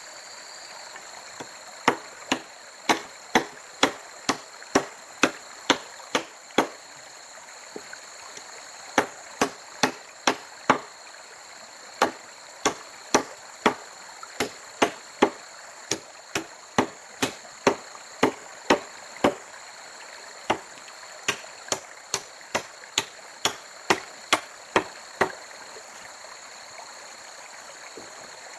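Repeated sharp chopping strikes of a blade on wood, about two a second in runs broken by short pauses, over a steady background of running water.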